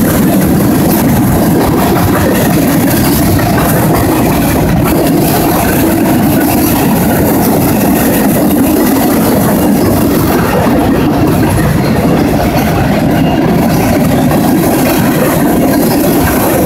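Freight train of covered hopper cars rolling past, a loud, steady rumble of steel wheels on the rails.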